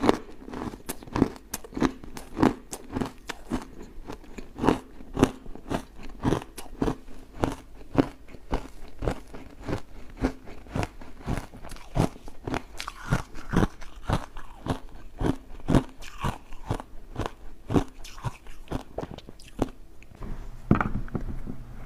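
Close-up crunching of refrozen ice chunks being bitten and chewed, a steady run of sharp crunches about two a second that thins out near the end.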